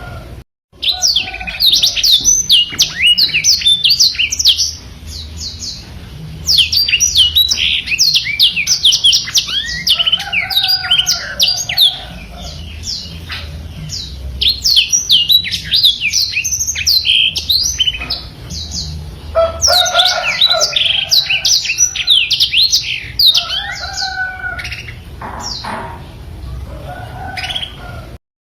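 Black-throated canary (blackthroat) singing a long, rapid twittering song of fast high sweeping notes. The song comes in phrases several seconds long, with quieter lower warbles between them. The sound drops out briefly about half a second in.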